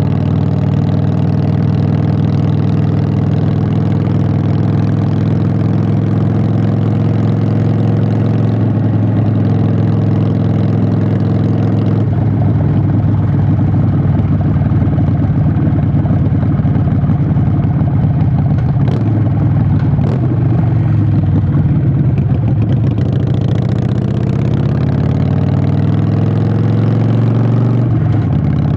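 Harley-Davidson Sportster 883's V-twin engine running through Vance & Hines Short Shots exhaust while riding, its note shifting in pitch as it slows and speeds up. Two brief clicks sound about two-thirds of the way through.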